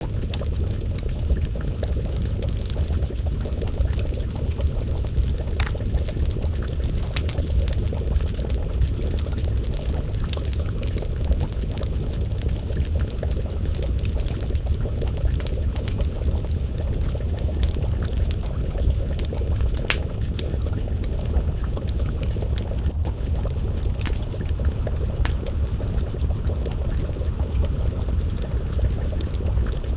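Wood fire crackling, with frequent sharp pops and snaps over a steady low rumble, and a pot of stew bubbling at a simmer.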